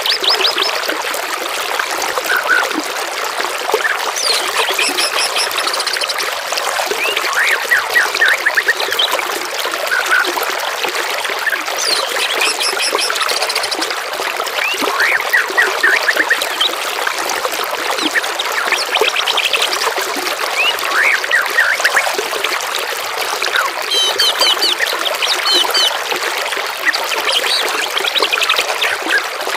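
Steady trickling running water with several songbirds singing over it, in phrases of fast repeated high notes and slurred whistled notes.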